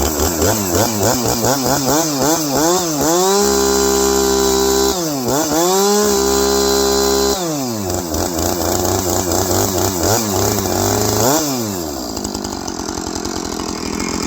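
Two-stroke chainsaw engine running after its repair. The throttle is blipped rapidly at first, then held wide open twice for a couple of seconds each, then it drops back to a rough idle with a few more revs.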